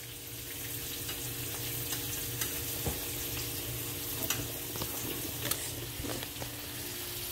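Battered zucchini fries and turkey burgers frying in hot oil, a steady sizzle, with a few light clicks from a utensil on the pans.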